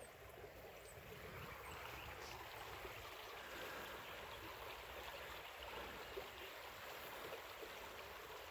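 Faint, steady babble of shallow creek water.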